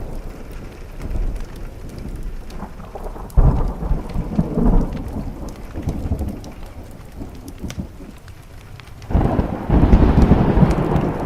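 Thunderstorm with steady rain. Thunder rumbles in suddenly about three seconds in and fades, and a louder, longer rumble starts near the end. Small sharp crackles from a wood fire are scattered throughout.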